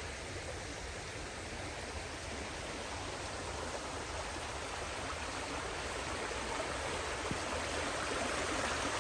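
Running water of a stream: a steady rushing that grows gradually louder.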